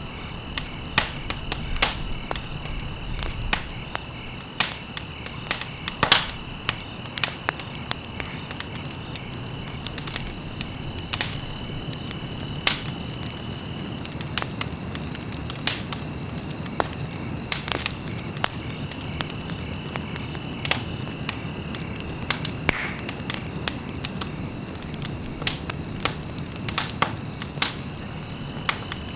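Wood fire in a fireplace crackling, with irregular sharp pops and snaps over a steady low rumble of flame. A faint high steady tone sits under it, dropping out about halfway and returning near the end.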